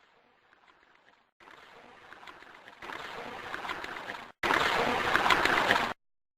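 A near-silent recording, mostly hiss with faint scattered clicks, played four times in a row. Each pass is louder than the last as the gain is stepped up, so the hiss and clicks grow with it.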